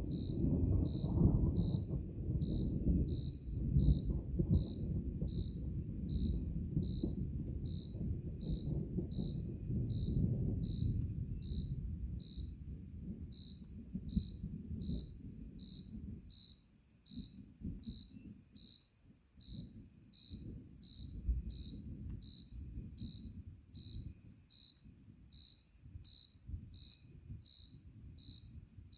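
A cricket chirping steadily, about one and a half high chirps a second, over a low rumble of distant thunder that fades away about halfway through.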